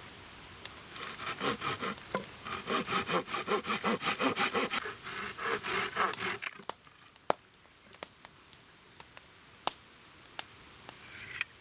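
Hand saw cutting through a wooden pole in quick back-and-forth strokes, stopping about six and a half seconds in, followed by a few light clicks.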